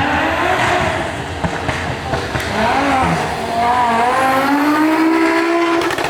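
Drag-racing car engine at full throttle during a pass, its pitch climbing steadily in the second half as the car accelerates, then falling away just before the end.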